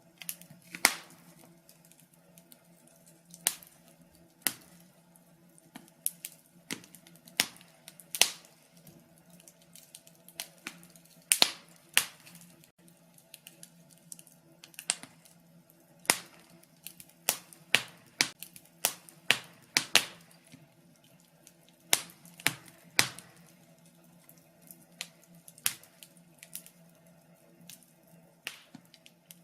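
Wood fire crackling in a fireplace: irregular sharp pops and snaps of burning logs, some loud and some faint, coming in quick clusters in places.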